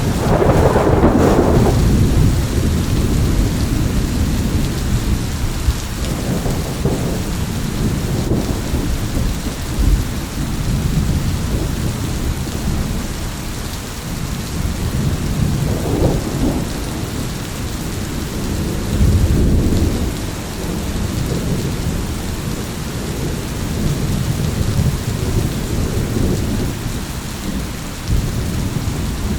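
Steady heavy rain with thunder rolling and rumbling throughout, one loud peal right at the start and further rolls swelling about a third and two thirds of the way through.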